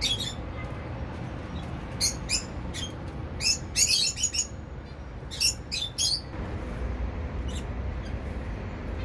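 Zebra finches calling: short, sharp nasal beeps, scattered and then in a quick cluster in the middle, with a last one later on. A steady low rumble runs under them.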